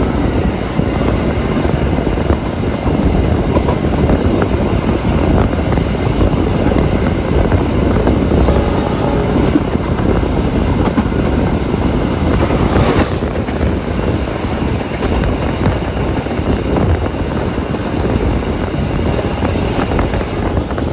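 Passenger train running at high speed, heard from aboard a stainless-steel coach: a steady, loud noise of wheels on rail, with a brief hiss about thirteen seconds in.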